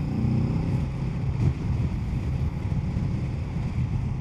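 Kawasaki Z650's parallel-twin engine running steadily while riding, under the rush of wind noise, heard from inside a motorcycle helmet.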